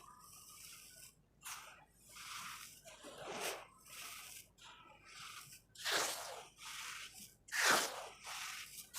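Dry red sand-cement crumbling and crunching in a run of irregular gritty bursts, the sharpest about three and a half, six and nearly eight seconds in, with softer crackling between.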